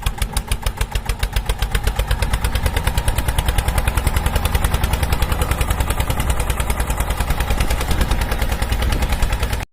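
Small engine running steadily with an even, quick chugging beat of about a dozen pulses a second. It cuts off abruptly near the end.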